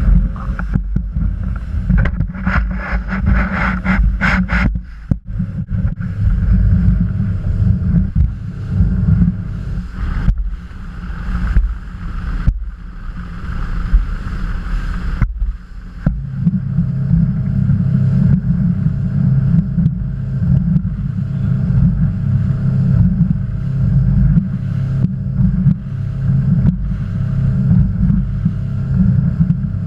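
Motorboat under way: a steady low engine drone with wind on the microphone, broken by occasional sharp knocks and a short rattle a few seconds in. The drone grows louder about halfway through.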